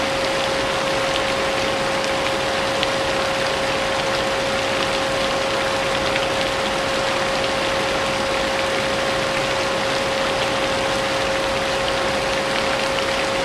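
A vacuum cleaner running steadily with a constant whine, mixed with the sound of falling rain.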